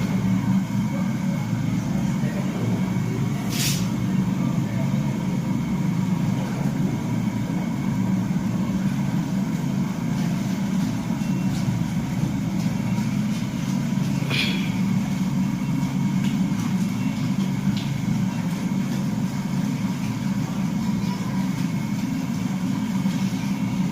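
Steady low machine drone, with two brief sharp high-pitched ticks, one about 4 seconds in and one about 14 seconds in.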